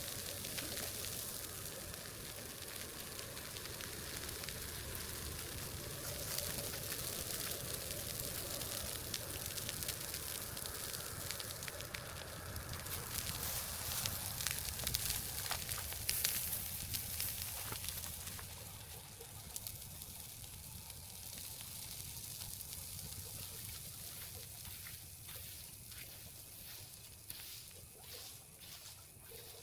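Wood fire crackling and hissing, with sharp pops scattered through a steady rush. The crackling is thickest and loudest around the middle, then dies down.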